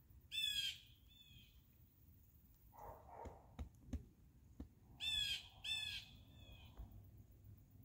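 Birds calling loudly with harsh, raspy calls: one call near the start, then two in quick succession about five seconds in. A short scrape and a few soft knocks come in between.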